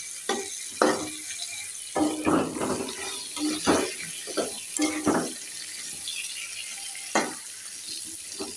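Pointed gourd slices sizzling in hot oil in a wok, with a steady hiss. A metal spatula scrapes and knocks against the pan as the pieces are turned: about a dozen strokes in the first five seconds and one more near the end.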